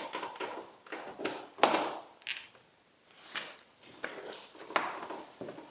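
Irregular knocks, clicks and clunks from parts and tools being handled, about ten short hits spread over a few seconds, the loudest about one and a half seconds in.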